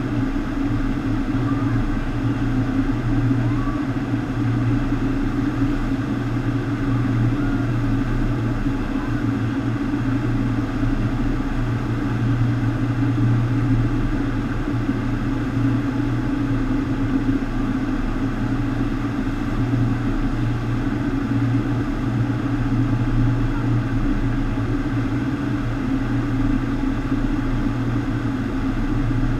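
FlowRider wave machine running: a steady rush of water over the ride surface with a constant low pump hum beneath it.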